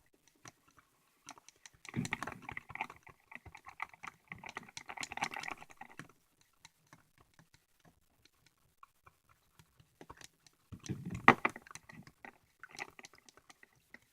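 A stirring utensil clicking and tapping against a container while wood glue is mixed into water, with two busier stretches of quick taps about two seconds in and about eleven seconds in.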